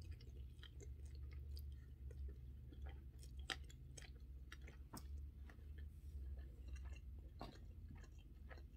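A person chewing a mouthful of fried spaghetti, with soft, irregular wet mouth clicks over a faint low hum.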